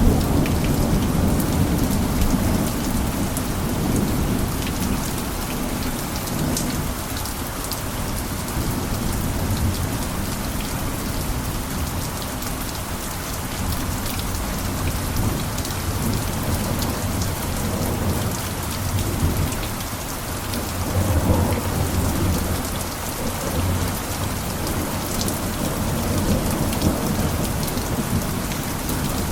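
Steady heavy rain with scattered drop ticks, under low rolling thunder that swells at the start and again about two-thirds of the way through.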